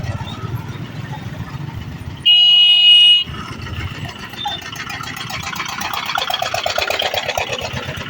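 Indian EMU local train's horn sounding one steady blast about a second long, a little over two seconds in. After it comes a rising, rapid rattling clatter as the train draws near, loudest near the end.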